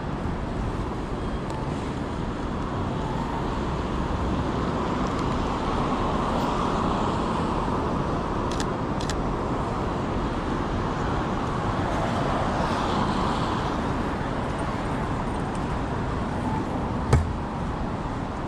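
City street traffic noise: a steady wash of passing cars, swelling twice as vehicles go by. A sharp click near the end is the loudest moment.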